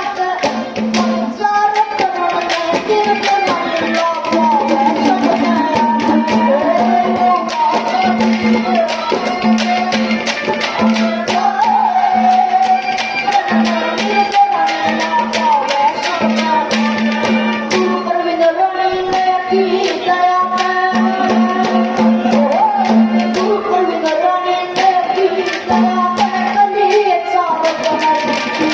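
Haryanvi ragni sung live by a child, over a steady hand-drum beat and a melody accompaniment that follows the voice.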